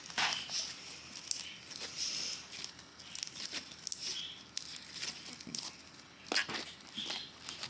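Slime being squished and pulled by hand, giving irregular sticky clicks and crackles, with a louder cluster about six seconds in.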